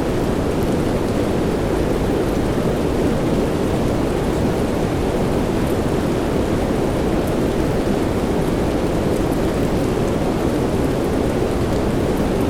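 Steady soft rain blended with white noise: a deep, even hiss that does not change, with a few faint drop ticks above it.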